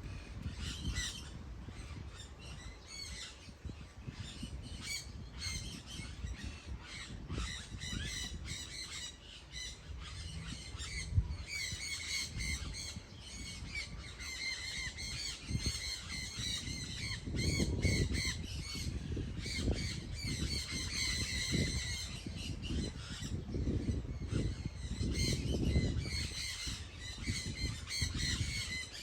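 A flock of birds calling over and over in short, harsh, many-toned calls, thickest in the middle and near the end, over a low rumbling noise that swells in bursts in the second half.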